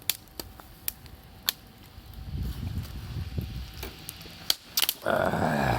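Wood campfire crackling, with scattered sharp pops and a low rumble in the middle. A louder, fuller sound comes in near the end.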